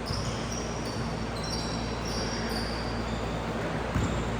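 Basketball game sounds in a gym: several short, high sneaker squeaks on the court over a steady hall hum, with a ball bounce near the end.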